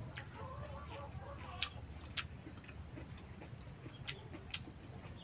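Wet mouth smacks and clicks of someone chewing a mouthful of rice and kinilaw, a handful of sharp smacks spread through. Faint chirping and a faint, rapid, high ticking run underneath.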